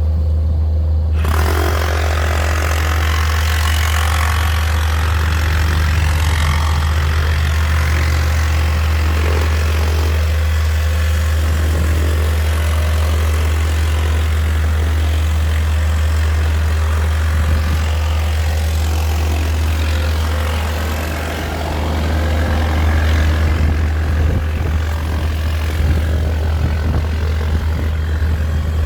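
Large engine running steadily with a deep, constant low hum. It eases briefly about twenty-one seconds in, then picks up again.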